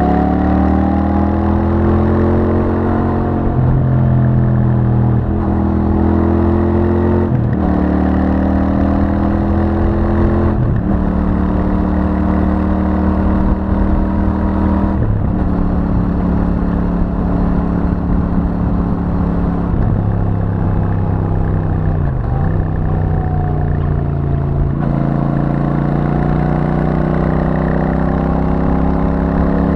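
Royal Enfield Super Meteor 650's 648 cc parallel-twin running through its stock exhaust at low to moderate revs under way. The note climbs steadily, then drops sharply several times with brief breaks, as at gear changes.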